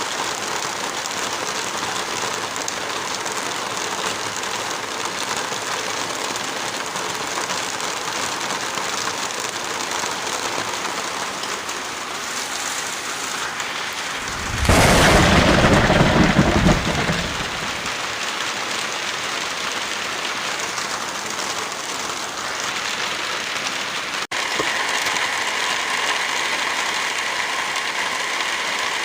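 Steady heavy rain hissing, with a roll of thunder about halfway through that lasts a couple of seconds. A brief dropout comes later, and the rain then goes on with a brighter hiss.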